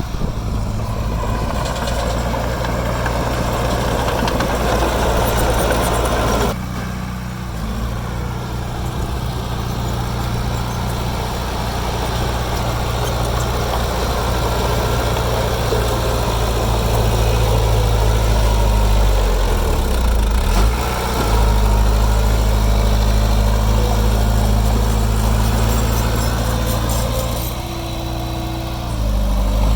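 Diesel engines of heavy earthmoving machinery running steadily. The sound changes abruptly about six seconds in, and the engine pitch wavers briefly about twenty seconds in.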